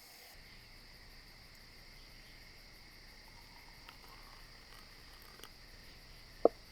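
Steady, high-pitched drone of insects such as crickets, with one sharp knock near the end.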